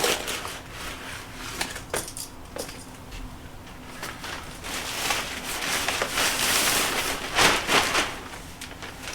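Insulation being pulled by hand out of an opened wall cavity: rustling and crinkling with scattered cracks and knocks, loudest about five to eight seconds in.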